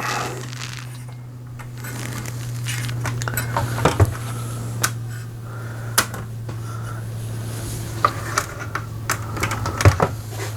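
Scattered clicks and light metallic clinks of a disassembled laminator's casing and parts being handled, over a steady low hum.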